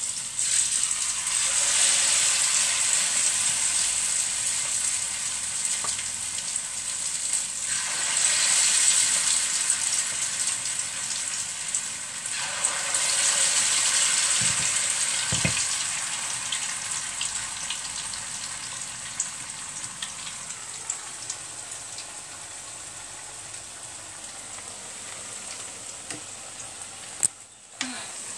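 Potato akara batter frying in hot oil in a pan, a steady sizzle that swells up three times in the first half and then settles lower. A single sharp knock sounds near the end.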